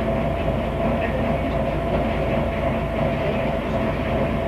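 Mercedes-Benz O500MA articulated bus's diesel engine and drivetrain running steadily under way, heard from on board. A constant mid-pitched tone sits over the low engine and road rumble.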